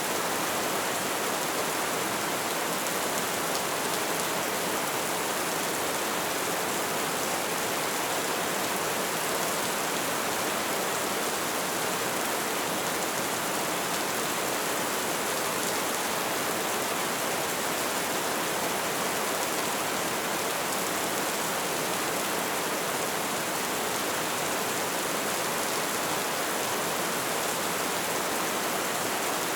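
Light rain falling steadily, a dense even hiss of drops with no breaks.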